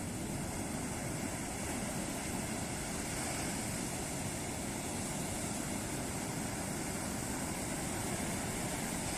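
Ocean surf washing onto a beach: a steady, continuous rush of breaking waves.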